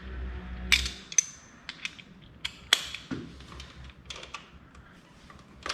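Ratchet and socket extension being worked at a bolt on an engine: irregular sharp metallic clicks, taps and clinks of steel tools, some ringing briefly. A low hum stops about a second in.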